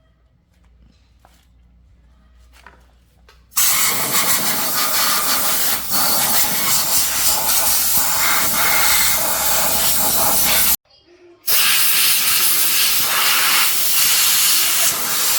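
A loud, even hiss from a jet of pressurised gas, in two long blasts. It starts abruptly about three and a half seconds in and breaks off briefly about 11 s in. Faint clicks of handling come before it.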